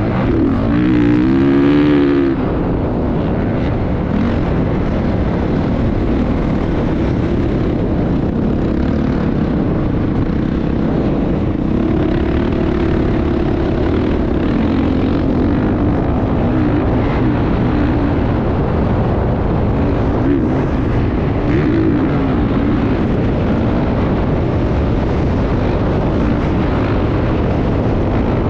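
Motocross motorcycle engine running, revving up about a second in and then carrying on at a fairly even speed, its pitch wandering up and down under a heavy rush of noise.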